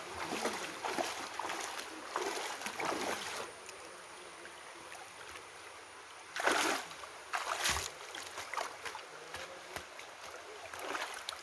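Water splashing and sloshing, irregular at first, then quieter, with two louder splashes about six and a half and seven and a half seconds in.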